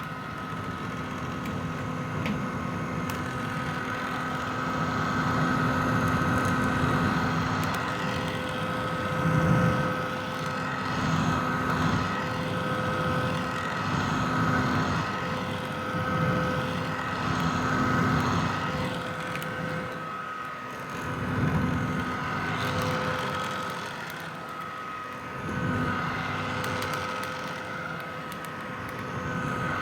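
Vintage hair dryer running steadily: a whining motor tone over the rush of blown air, its loudness swelling and easing every few seconds.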